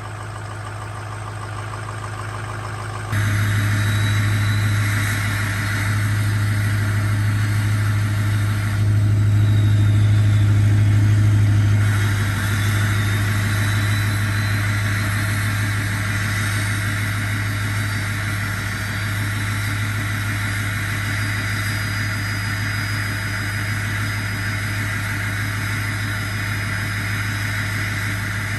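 Ford V8 diesel pickup engine idling steadily. It gets suddenly louder about three seconds in and swells briefly near the middle.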